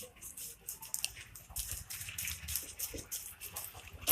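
Earphone retail box being opened by hand: faint scattered crackles and clicks of cardboard and plastic packaging, with a sudden louder rustle right at the end.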